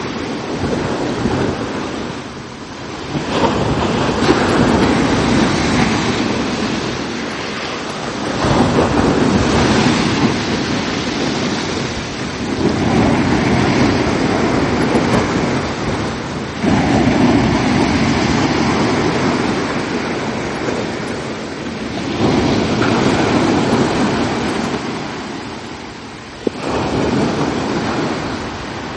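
Ocean surf breaking on a beach: a continuous rushing wash that swells and eases as about six waves come in, one every four to five seconds.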